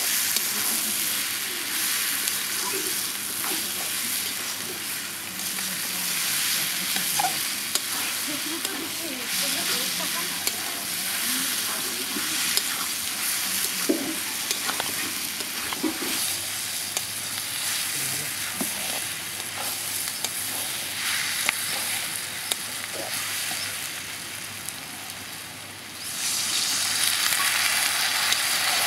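Food frying in hot oil in a pan, sizzling steadily while a spatula stirs it, with occasional scrapes and knocks. The sizzle suddenly grows louder near the end.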